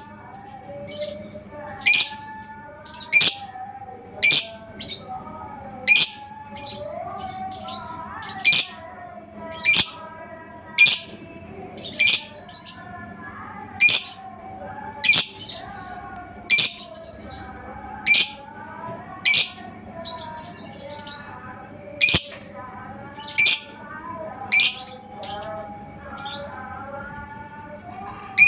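Lovebird calls: sharp, high chirps repeating about once a second over a continuous lower, wavering chatter.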